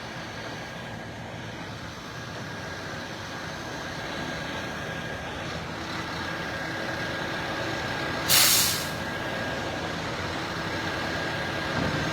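Heavy wrecker truck's engine running steadily at the recovery work, slowly growing louder. A short, loud hiss of air about eight seconds in.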